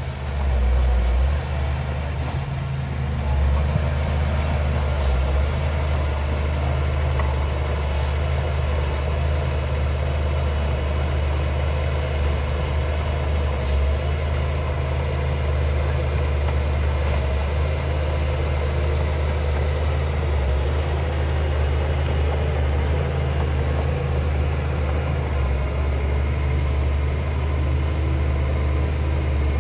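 Heavy construction machine's diesel engine running steadily at an even, low pitch.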